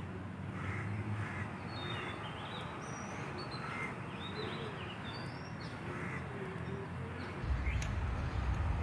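Many birds chirping and calling, short scattered calls throughout, over steady outdoor background noise; a low rumble comes in near the end.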